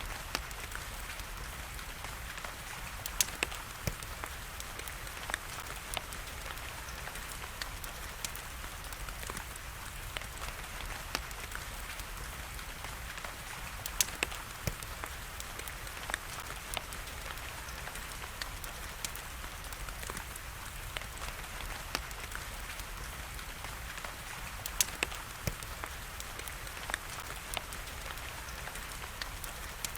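Steady rain hiss with the sharp, scattered pops and crackles of a wood fire burning in a fireplace. The loudest pops come a few seconds in, around the middle and near the end.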